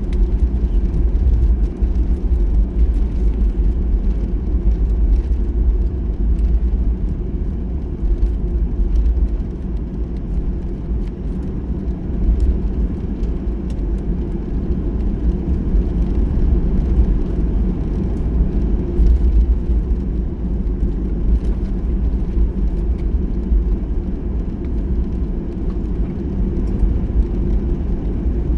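Cabin noise inside a taxiing Boeing 737-800: a steady low rumble and drone from its CFM56 engines at taxi power and the rolling airframe, with a few faint light ticks and rattles.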